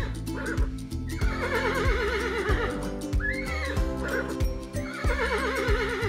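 Horse whinnies, a warbling call heard three or four times, over background music.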